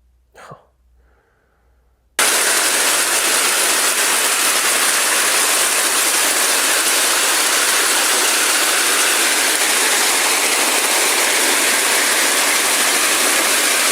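A loud, steady, hiss-like rushing noise that starts suddenly about two seconds in and holds even throughout. A brief faint sound comes just before it.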